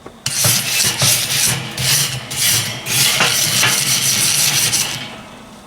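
Stainless-steel-bristle wire brush scrubbing a burnt-off stainless steel cooking grate in quick back-and-forth strokes, stopping near the end.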